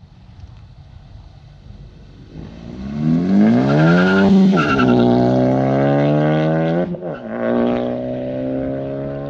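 2016 Ford Focus ST's turbocharged 2.0-litre four-cylinder, through an AWE Touring Edition non-resonated cat-back exhaust, pulling hard under acceleration. The note climbs for about two seconds, drops sharply at a gear change about four seconds in, then eases down. After a brief break about seven seconds in, it settles to a steady, lower cruising note.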